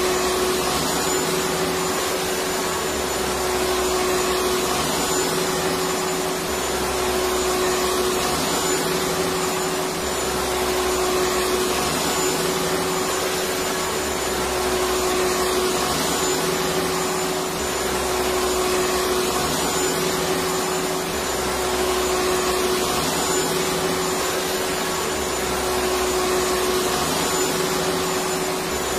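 Electric vacuum cleaner running steadily: a continuous motor hum and rush of air with a steady pitched tone under it.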